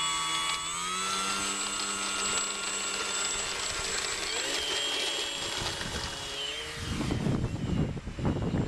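Radio-controlled model Cessna's motor and propeller whining steadily, its pitch stepping up about a second in and again about halfway as the throttle is opened for taxiing and take-off. Loud wind buffeting on the microphone near the end.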